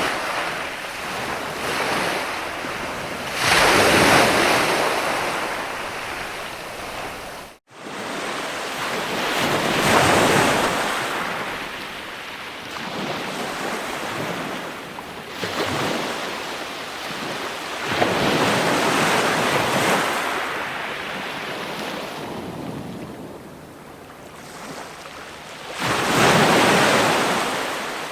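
Ocean waves breaking and washing in, the surf swelling and fading every few seconds, with a brief cut to silence about seven and a half seconds in.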